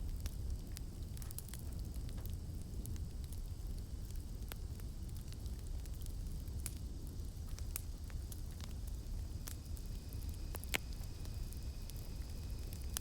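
Campfire crackling: irregular sharp pops and snaps of burning wood over the steady low rumble of the flames, with one louder pop about eleven seconds in.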